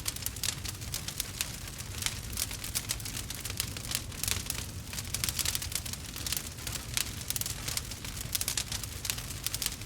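Burning wood crackling, with dense, irregular pops and snaps over a low steady rumble.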